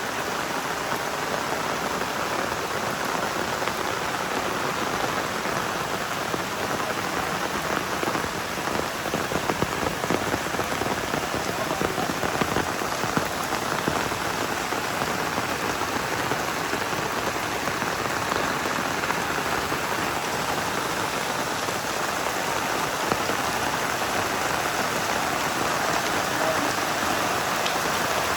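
Heavy rain falling steadily, a dense hiss of drops with scattered sharper drop hits, a little louder in the middle stretch.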